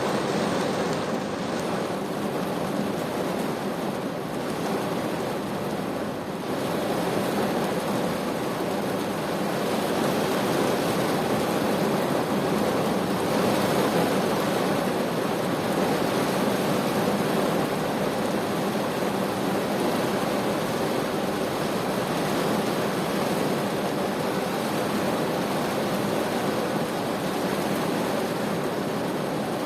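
Heavy rain pouring steadily, a dense even hiss without breaks.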